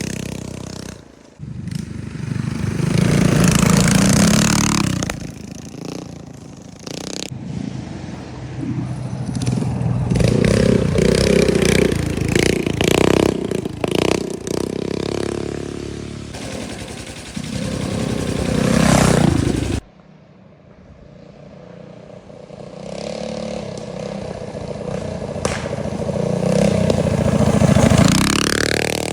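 Minibike engines running and revving on a trail ride, pitch rising and falling with the throttle, with rattling and scraping from the bike. The sound cuts off abruptly about two-thirds of the way through, then an engine builds up again and revs hard near the end.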